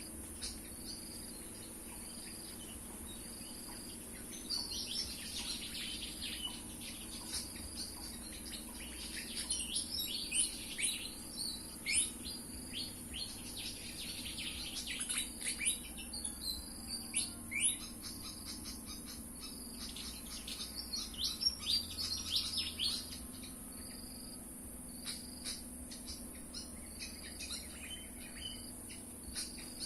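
Fantails chirping: bursts of quick, sharp, high twittering notes that crowd together through the middle, with short repeated phrases at the start and near the end. Under them runs a steady, high-pitched insect drone.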